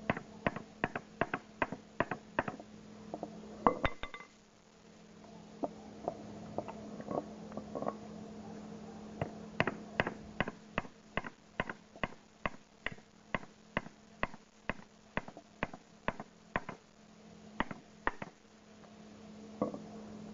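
A run of sharp clicks and taps of small hard toy parts being handled, irregular at first, pausing briefly around four seconds in, then coming fairly evenly at about two to three a second, over a faint steady hum.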